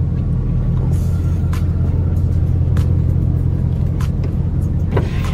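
Ford three-quarter-ton pickup's engine running with a steady, loud low drone, heard from inside the cab, with a few scattered sharp clicks.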